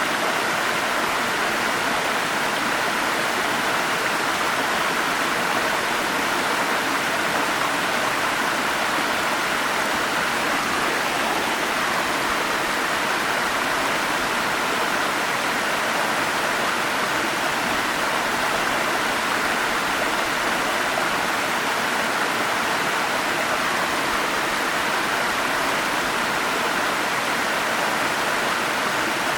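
Forest stream flowing: a steady, even rush of water with no separate splashes or changes.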